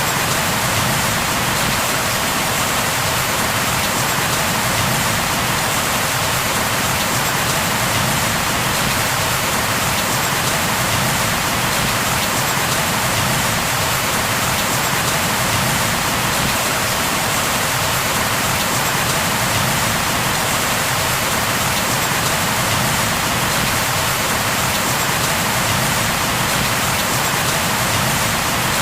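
Steady heavy rain falling, an even unbroken hiss with no thunder.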